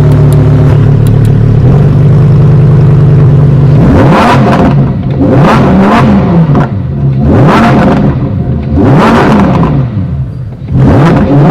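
Lamborghini Reventón's V12 engine idling, then revved in a series of quick throttle blips, each rising and falling in pitch, about one and a half seconds apart.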